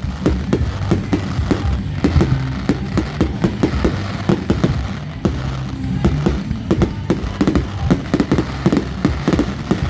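Fireworks going off in rapid, irregular bangs and crackles, with background music and its bass line underneath.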